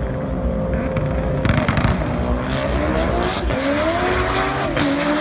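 Drag car's engine at full throttle down the strip, its pitch climbing steadily through a gear, dropping sharply at an upshift near the end and climbing again.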